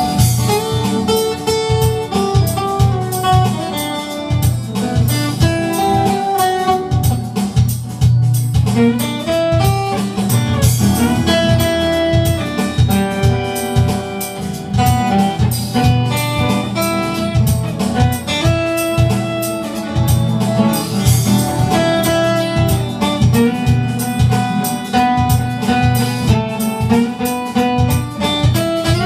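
Instrumental soul music: a guitar plays over a band with drum kit.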